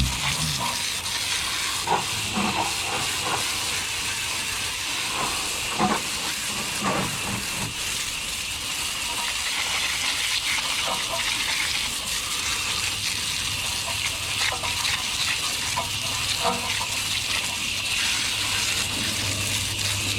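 Hose spraying water onto a car wheel to rinse it, a steady hiss of spray with a few small knocks.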